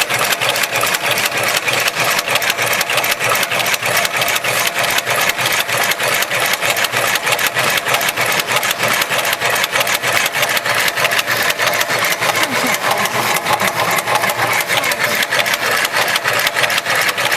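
Heavy-duty automatic rope sewing machine running, stitching with a steady, rapid, even clatter of needle strokes.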